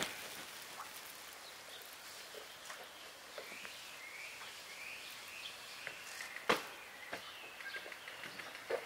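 Small birds chirping faintly over quiet outdoor ambience, with scattered light ticks and one sharp click about two-thirds of the way in.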